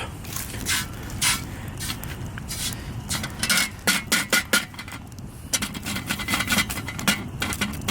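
Wood campfire crackling, with many irregular sharp pops and cracks over a low steady rush.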